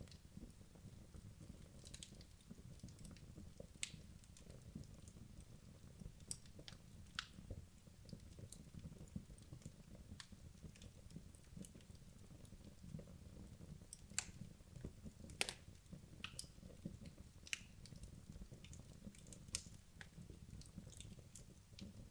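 Wood logs burning in a fireplace: a low steady rumble of flame with irregular sharp crackles and pops from the burning wood, a few louder pops around the middle.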